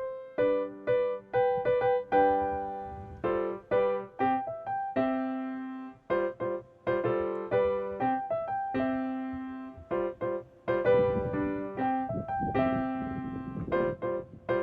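Background piano music: a melody of notes struck one after another, each ringing and fading.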